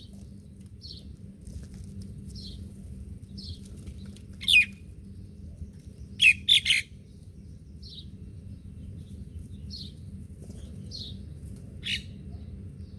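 Birds chirping: short high calls about once a second, with a few louder chirps in quick succession about four and six seconds in, over a steady low rumble.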